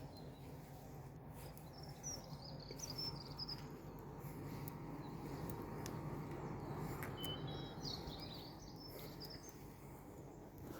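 Small birds chirping in two short spells a few seconds apart over a steady low hum of outdoor background noise.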